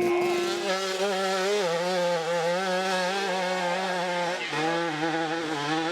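Off-road vehicle engine revving up and held at high revs under load, its note wavering slightly, with a brief dip in revs about four and a half seconds in.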